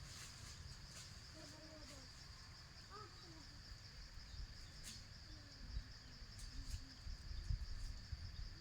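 Faint, steady high-pitched chirring of insects, with a few faint distant calls, about a second in and again near the end.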